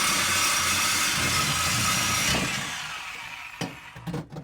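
Power tool, most likely an angle grinder's cut-off wheel, cutting through steel exhaust pipe with a loud, steady hiss, then released about two seconds in and winding down. A sharp knock comes near the end.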